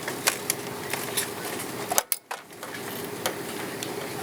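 Airliner cabin noise: a steady hum with a constant tone, with scattered light clicks and a brief dropout about two seconds in.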